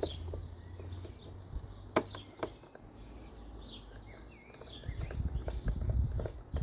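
A sharp click about two seconds in and a few lighter clicks and knocks of hand tools and small metal parts being handled while the blower engine's cylinder head screws are fitted, with low rustling of handling in the second half. Short high bird chirps sound several times in the background.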